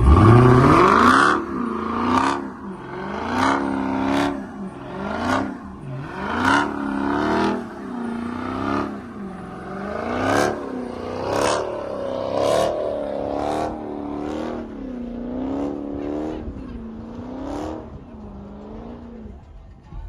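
A car engine revved hard over and over, the pitch climbing and dropping about once a second, with a sharp crackle at the top of each rev. It opens with one fast rev straight up.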